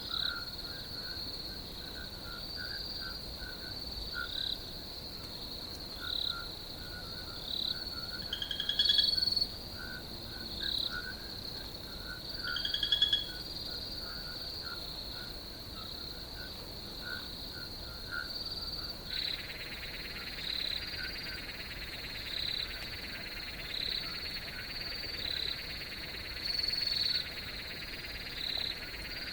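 Night chorus of crickets and frogs: a steady high cricket trill under short calls repeated every second or so, with two louder calls near the middle. A second steady insect drone joins about two-thirds of the way through.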